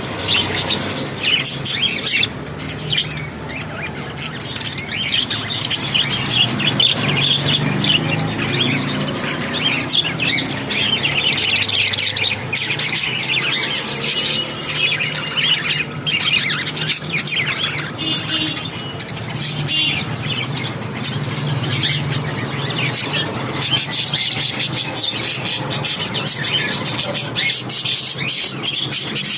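A flock of lovebirds chirping and chattering busily and continuously, with many rapid overlapping calls.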